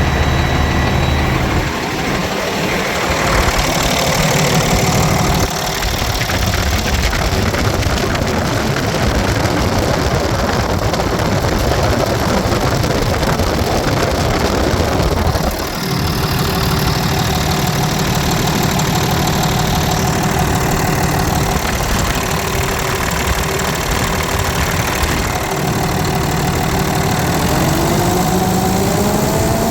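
2011 Cummins ISC8.3 inline-six turbo diesel engine running steadily. Near the end its revs rise.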